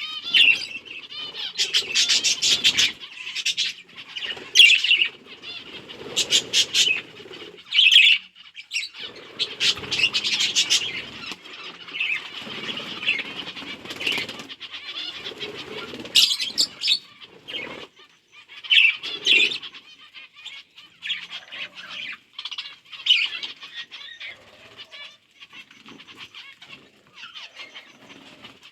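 A flock of budgerigars chirping and chattering, with bursts of wing flapping, busiest in the first half.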